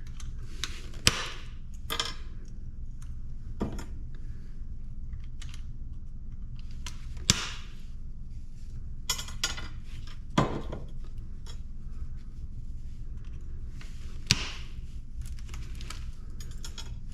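Scattered clinks and clanks of scrap metal parts being handled and dropped into sorting buckets, a dozen or so irregular sharp hits, over a steady low hum.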